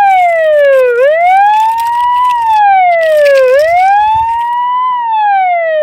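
Electronic fire-truck siren wailing loudly. Its pitch climbs slowly and drops back in a repeating cycle about every two and a half seconds.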